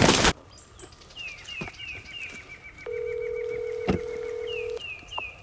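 Telephone ringback tone: a steady hum about two seconds long, heard through a phone's speaker while a call rings through, with a click partway through. Behind it a songbird gives a fast series of short, repeated chirps.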